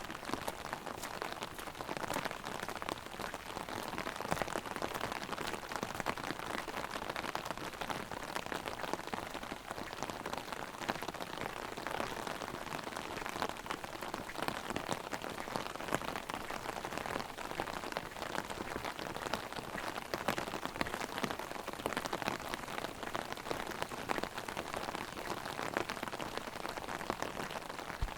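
Heavy rain drumming on an umbrella overhead: a dense, steady patter of drops.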